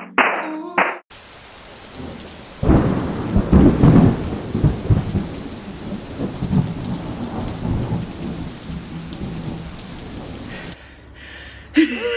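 Heavy rain pouring down, with a long roll of thunder that comes in a couple of seconds in, is loudest soon after, and rumbles away over the next several seconds.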